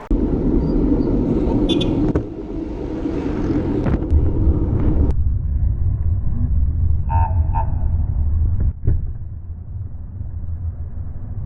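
Road-ride audio from a camera on a moving bicycle: a heavy low rumble of wind and passing traffic. A brief tooting tone comes about seven seconds in, and a sharp click follows shortly after.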